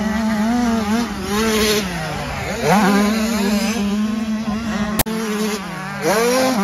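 Dirt bike engine buzzing, its pitch wavering and sweeping up in quick revs about two and a half and six seconds in. A single sharp click comes about five seconds in.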